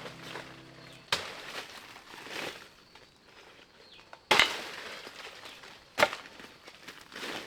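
Three sharp knocks or blows, the loudest two about halfway through and a second and a half later, with softer rustling or scraping between them, typical of hand work such as chopping. Background music ends about a second in.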